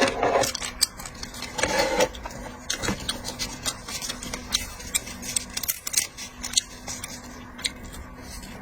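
Irregular light clicks and taps of cutlery and shellfish shells being handled while eating seafood, over a faint steady low hum.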